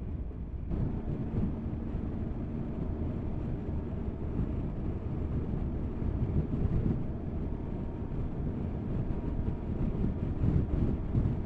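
Motorcycle running at road speed, its engine hum under steady wind rushing over the camera microphone.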